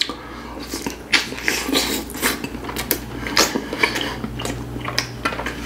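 Close-miked chewing of a syrup-soaked gulab jamun: irregular wet mouth clicks and smacks, several a second, over a faint steady low hum.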